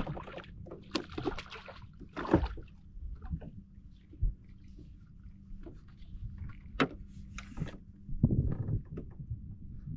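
Irregular knocks and clatter against a kayak hull as gear and a freshly landed fish are handled, with a loud knock about two and a half seconds in and a short cluster of them near the end.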